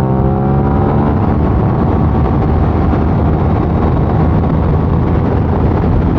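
Motorcycle engine pulling under load with heavy wind rush on the camera microphone. The engine's pitched note is clear for the first second, then is mostly buried under steady wind noise.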